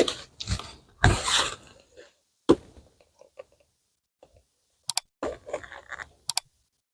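Irregular knocks, scrapes and rustles of equipment being handled, with sharp clicks about five and six seconds in.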